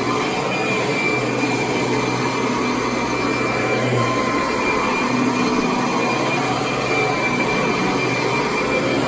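Vacuum cleaner running steadily, a constant rushing noise with a thin high motor whine over a low hum.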